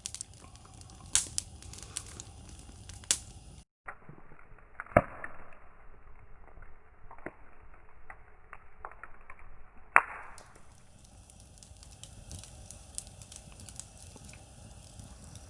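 Wood campfire crackling steadily, with a few sharp pops from the burning wood.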